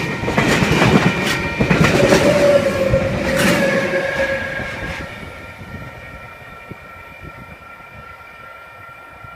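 NSW TrainLink V set intercity electric train moving past, its wheels clicking over the rail joints, with a held tone about halfway through. The sound dies away about five seconds in, leaving a quieter steady background.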